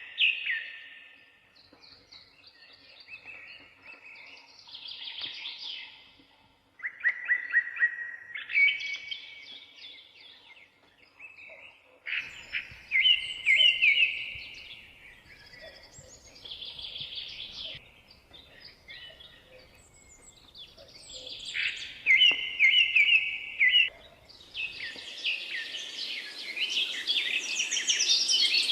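Songbirds singing: short phrases of quick repeated whistled and chirping notes come every few seconds, a few of them loud and close. About 25 seconds in, a denser, higher-pitched chatter of calls builds up underneath.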